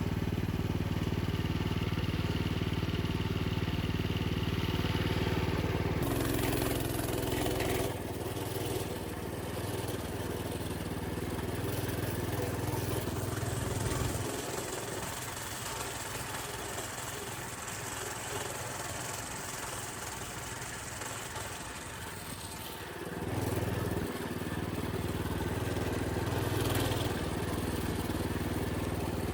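Old minibike engine running as it is ridden along a dirt trail, its note changing with the throttle. The engine sound drops away for several seconds in the middle, then picks back up.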